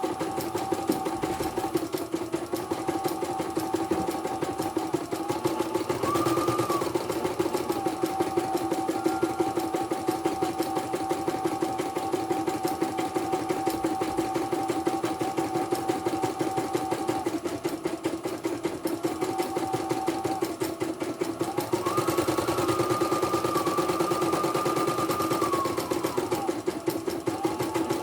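CNY portable computerized embroidery machine stitching: a fast, even clatter of needle strokes with a motor whine that steps up and down in pitch now and then as the hoop moves.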